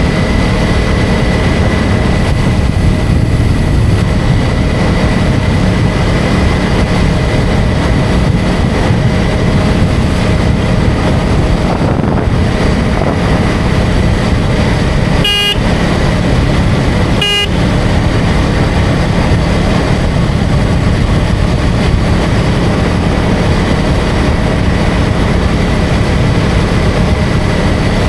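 KTM Duke 250's single-cylinder engine running at a steady cruising speed, with wind rushing past. About halfway through, two short horn toots sound a couple of seconds apart.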